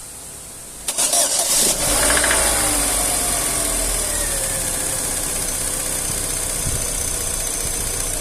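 Chevrolet Astra engine cold-started: about a second in the starter cranks briefly, the engine catches and flares up, then settles to idle with a whine that falls slowly in pitch. It is the start-up noise on a cold engine, the first start of the day, that is being diagnosed.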